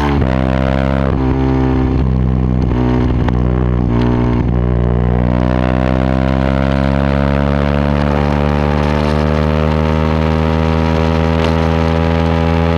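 Yamaha WR125X's single-cylinder 125 cc four-stroke engine through a Takkoni aftermarket exhaust, loud: its revs dip and waver in the first few seconds, then climb slowly and steadily for about eight seconds.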